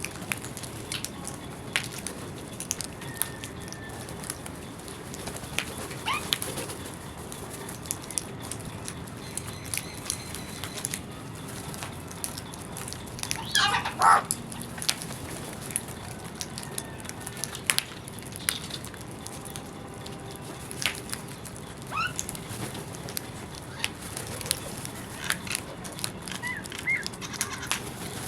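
Birds at a feeding spot: scattered wing flaps and many sharp little taps and clicks, with a few short calls. One louder call comes about halfway through.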